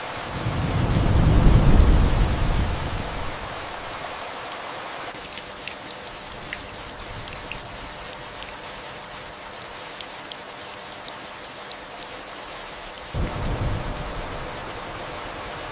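Steady rain with distant thunder. One low rumble swells and fades over the first three seconds, and a second begins abruptly near the end. In between, individual raindrops tick over the rain's hiss.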